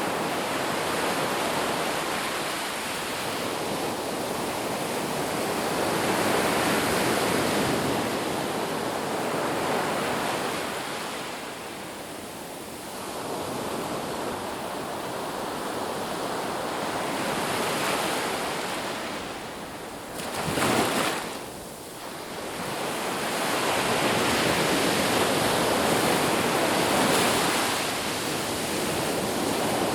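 Ocean surf on a beach: waves breaking and washing in, swelling and fading every few seconds, with one brief louder surge a little past two-thirds of the way through.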